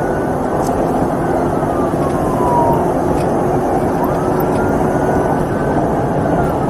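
Police car siren wailing, its pitch slowly rising and falling about every four seconds, over loud, steady road and engine noise from a patrol car in a pursuit at roughly 80 to 100 mph.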